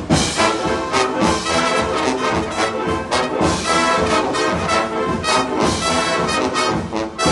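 Marching band playing brass music over repeated sharp percussion hits, coming in with a loud attack right at the start.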